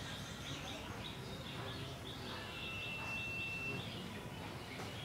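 Small birds chirping over and over in steady outdoor background noise, with a thin, steady whistle held for about a second and a half past the middle.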